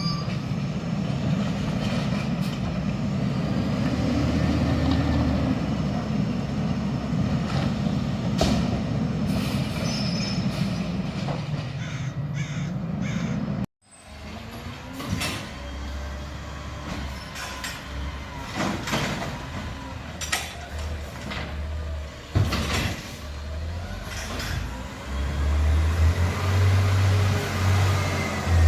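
Garbage truck's engine running steadily under load. After a sudden cut, a truck is working again with scattered knocks and short squeaks from its mechanism, and its engine revs up near the end.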